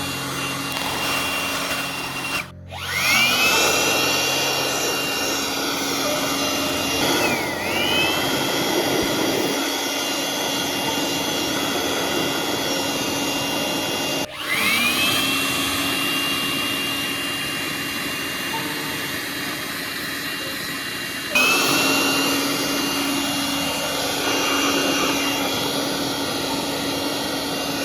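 Electric handheld air blower running at full speed: a high motor whine over a rush of air. The whine drops away and spins back up to pitch about four times.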